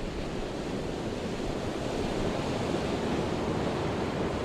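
Ocean surf washing on a shore: a steady rush of waves, swelling a little about halfway through.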